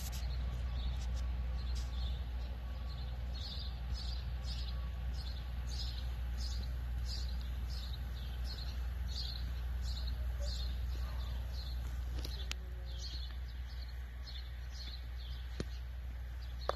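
A small bird chirping over and over, short high notes about twice a second, over a steady low outdoor rumble.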